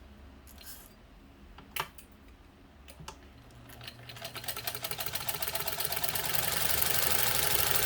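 1948 Singer 15 sewing machine: two sharp clicks, then it starts sewing about four seconds in. It speeds up over a couple of seconds and runs steadily at full speed, stitching through flannel.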